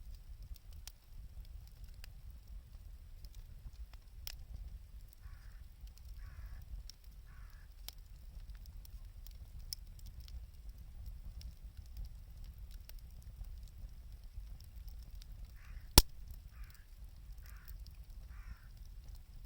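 Wood bonfire crackling with scattered small snaps over a low rumble, and one sharp, loud pop about two-thirds of the way through. A bird calls in two short series, three calls and then four.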